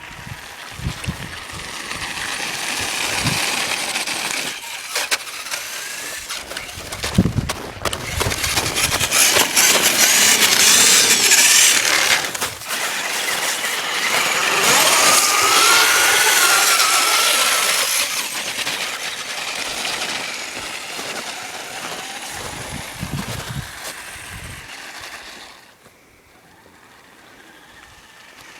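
A truck's motor running and revving as it drives. It is loudest in the middle, where a whine rises and falls, and near the end it drops away suddenly.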